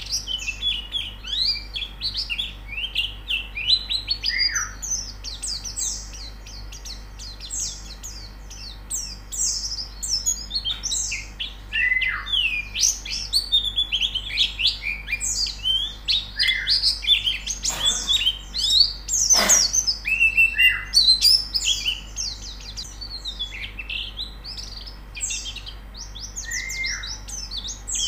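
Several white-eyes (pleci) twittering and chirping together: a dense, overlapping stream of quick high notes with repeated short falling calls. Two louder, sharper calls come about two-thirds of the way through.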